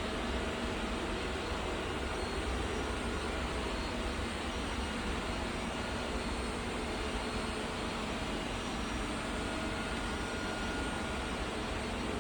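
Roborock Qrevo S robot vacuum running, a steady whir with faint high whining tones.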